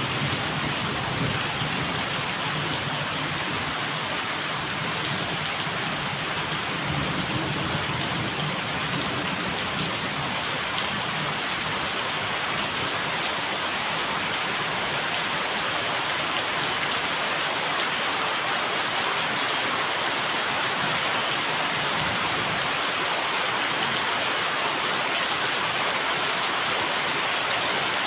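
Steady, heavy rain falling and pattering on surfaces. A low rumble of distant thunder underlies the first half and fades away.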